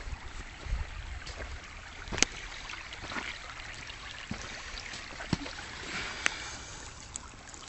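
Shallow creek water trickling, with a few sharp clicks of stones knocking together, the loudest about two seconds in.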